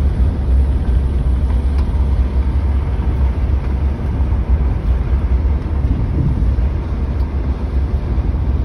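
Steady low rumble of a Suzuki Jimny on the move, heard from inside the cabin: engine, tyre and wind noise with no distinct events.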